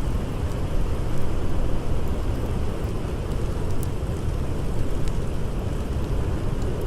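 Steady, deep blizzard wind noise, with a few faint, sparse crackles of a campfire.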